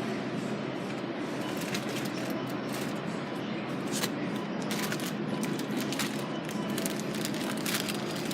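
Steady background noise inside a store, with scattered light clicks and rustles of items being handled.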